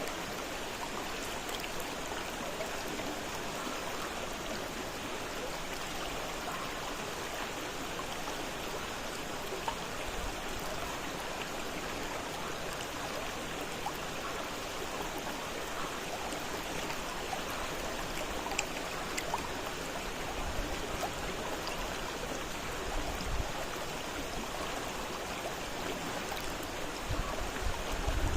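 Fast-flowing river water rushing steadily over rocks, an even, continuous splashing. A few low rumbles come in during the last third.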